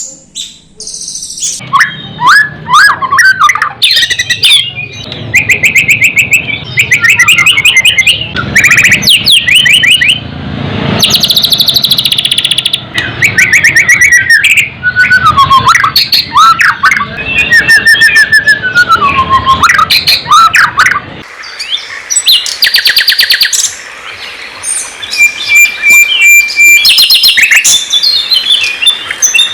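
Songbird song, loud and varied: fast repeated trills and chattering phrases mixed with clear whistled notes that rise and fall. The background noise under the song stops suddenly about 21 seconds in.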